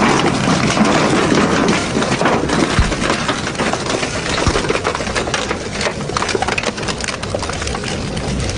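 Industrial double-shaft shredder tearing up metal scrap: a continuous loud grinding din packed with rapid cracks and snaps as pieces break between the blades.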